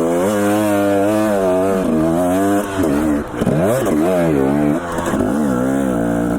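Dirt bike engine running under throttle while riding, its pitch rising and falling with the revs. About three seconds in the throttle is briefly rolled off, and then the engine revs up and back down again.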